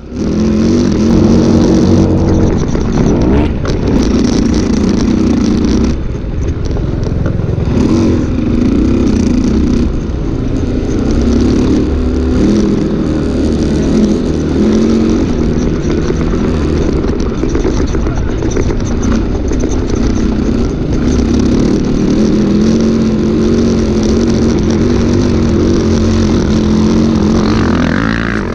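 Dirt bike engine running under load while it is ridden, its pitch rising and falling with the throttle.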